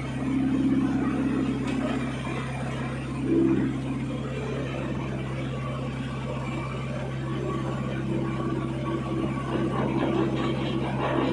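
Boat engine running steadily with a constant low hum, swelling louder briefly near the start and again about three seconds in.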